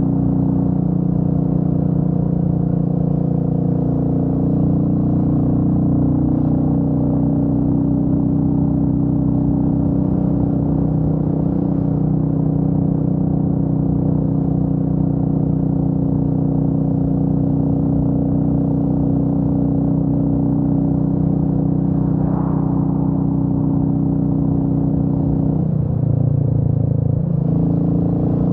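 Royal Enfield Meteor 350's single-cylinder engine running steadily under way. Near the end the engine note dips briefly, then picks up and settles again.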